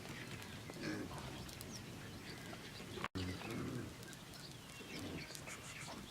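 Birds chirping over a rural outdoor background, with a few short low calls from an animal or a voice. The audio cuts abruptly about three seconds in.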